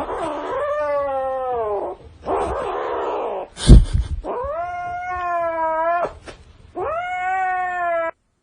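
Cat caterwauling: three long, drawn-out yowls, each sagging in pitch at the end, with a rough, noisy cry between the first two. A loud thump comes about halfway through.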